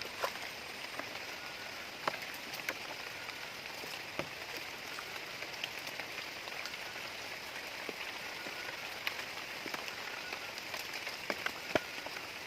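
Rain falling steadily, an even hiss with scattered sharp ticks of individual drops striking.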